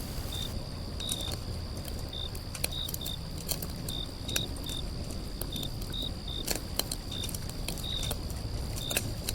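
Crickets chirping: short high chirps at irregular intervals over a steady high insect trill, with scattered clicks and a low even background hiss.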